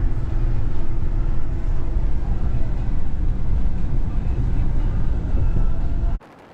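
Steady low rumble of road and engine noise inside a Chevy 3500 pickup's cab while it drives along a highway. It cuts off suddenly near the end.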